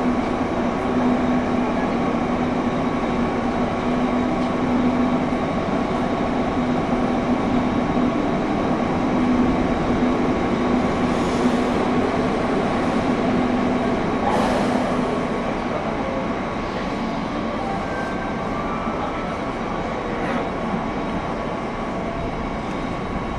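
Interior running sound of a JR West 201 series electric train, heard in a motor car without chopper equipment, so no chopper whine: steady wheel-on-rail and motor-car noise. A low hum sits under it and fades out about two-thirds of the way through, and the overall sound eases slightly after that.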